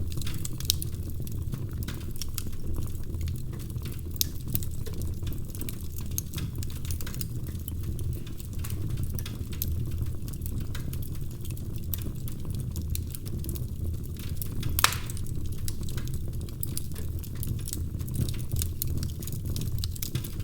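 Fireplace fire crackling: a steady low rumble of flames under many small snaps and pops, with one sharper, louder pop about fifteen seconds in.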